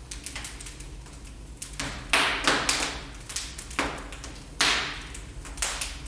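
Wood fire in a fireplace crackling, with irregular sharp pops and snaps, the loudest cluster about two seconds in and a few more toward the end.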